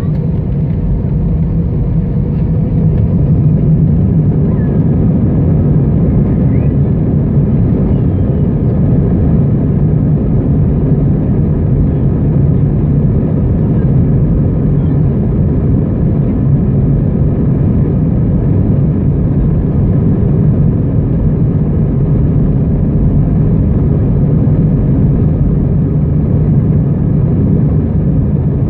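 Steady engine and airflow rumble heard inside the passenger cabin of an Airbus A320 in motion. It rises slightly in the first few seconds, then holds level.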